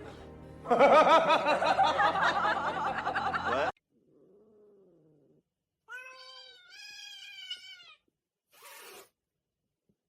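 Cats yowling and meowing in a few short clips cut hard against one another: a loud, wavering yowl lasting about three seconds, then after a gap a faint call, then one long wavering meow, and a short burst of noise near the end.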